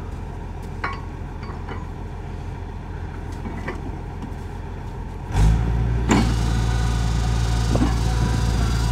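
Engine of an old drilling rig running steadily at a low note, then about five and a half seconds in picking up to a louder, steady run as it takes on work, with a few short metallic knocks as the drill rods are handled.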